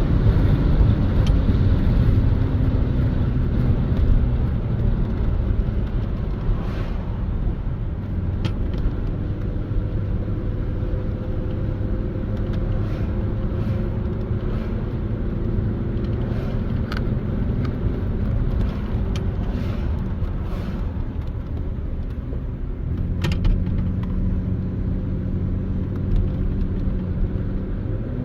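Car engine and road noise heard from inside the cabin while driving, the engine note rising and falling slowly with speed. A few light clicks or rattles come through now and then.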